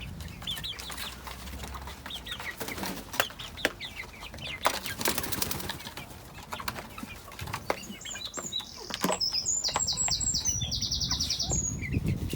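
Backyard chickens flapping their wings and moving about, with short high calls scattered throughout. A rapid, high trill from a small wild bird comes near the end.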